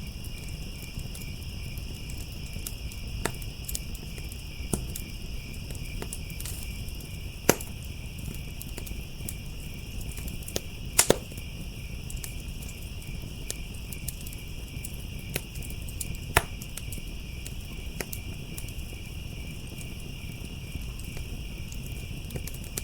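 Crickets chirping in a steady, continuous chorus over a crackling firepit fire, with a low rumble underneath and scattered sharp pops from the fire, the loudest about seven and eleven seconds in.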